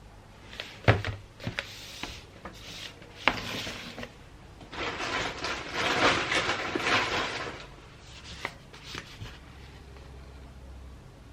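Gift-wrapping handling sounds: a few sharp taps or knocks in the first few seconds, then about three seconds of paper rustling and crinkling, with one more tap later on.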